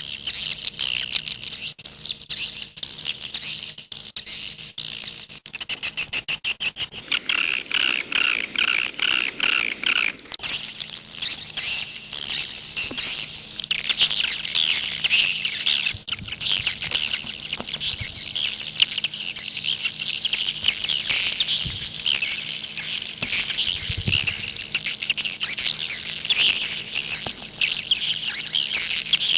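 Swiftlets chirping: a dense, continuous twittering of high chirps, with a faster run of rapidly repeated chirps from about six to ten seconds in. A faint steady hum lies underneath.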